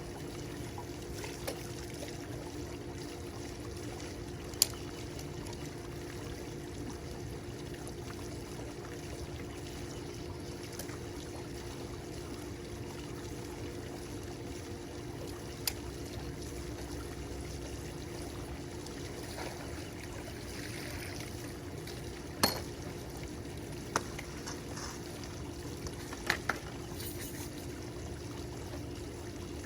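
Water running steadily, pouring and trickling, over a steady low hum, with a few sharp clicks, the loudest about five seconds in and again about three quarters of the way through.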